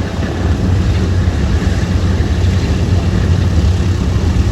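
Boeing B-17 Flying Fortress's Wright R-1820 Cyclone radial piston engines running, a loud, steady, low drone with propeller noise.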